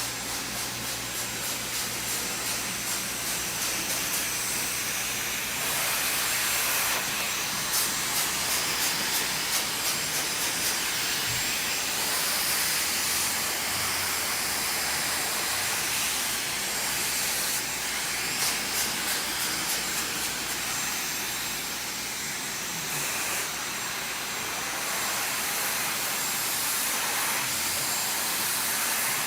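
Handheld hair blow dryer blowing steadily, a loud rush of air that rises and falls a little in level.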